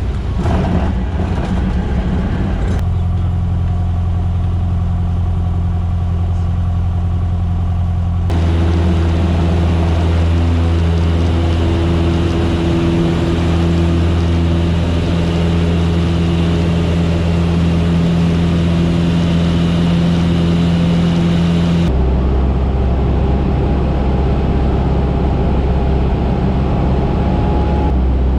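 Cessna 150's four-cylinder engine and propeller droning steadily in flight. The drone shifts abruptly in pitch and tone three times, about 3, 8 and 22 seconds in.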